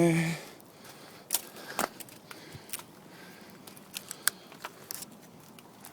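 Footsteps on a wooded trail, with irregular crackles and clicks of twigs and dry leaves underfoot. A short vocal sound cuts off right at the start.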